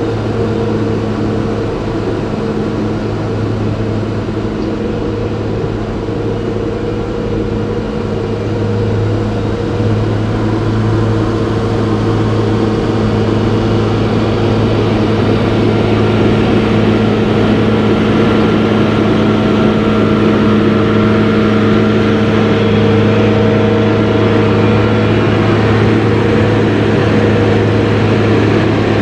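A steady mechanical drone with several held low tones over an even rushing noise, growing a little louder about ten to fifteen seconds in.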